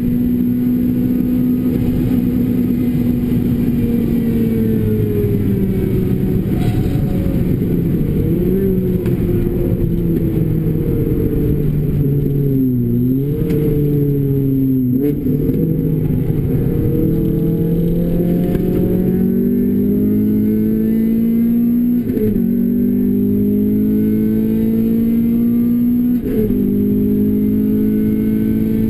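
Renault Clio RS engine, exhaust through a Bastuck aftermarket muffler, held at high revs under load. The revs then fall away with two quick dips around 13 and 15 seconds, like downshifts under braking. The car then pulls hard again, the engine note rising through the gears with upshifts near 22 and 26 seconds.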